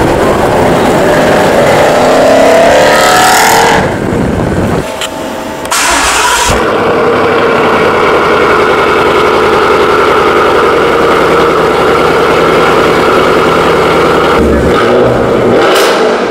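Ford Mustang GT's 5.0-litre V8 through a Borla ATAK exhaust, accelerating with rising pitch for about four seconds. After a short quieter gap the engine is cold-started, catching suddenly and loudly, and runs at a steady, loud fast idle, echoing inside a car park.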